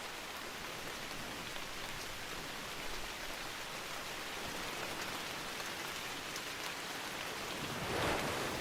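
Steady rainfall with dense pattering drops, swelling louder for a moment near the end.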